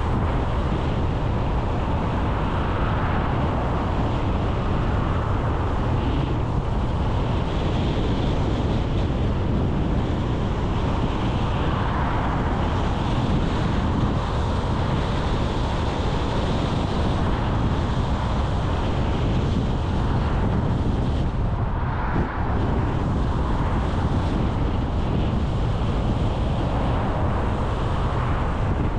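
Steady road and wind noise from a car driving along at speed, with wind rushing over the microphone and slow swells every several seconds.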